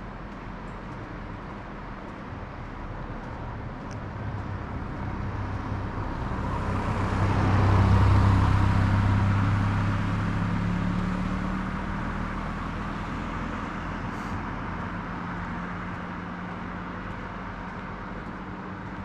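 A road vehicle driving past: its engine hum and tyre noise grow louder to a peak about eight seconds in, then slowly fade away.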